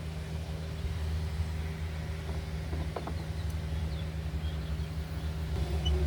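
Steady low mechanical hum, with a faint tick about three seconds in.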